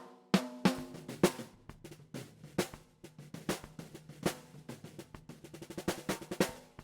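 Drum kit track playing: snare and kick hits with ringing drum tones, the hits growing quicker into a fill toward the end, then stopping suddenly.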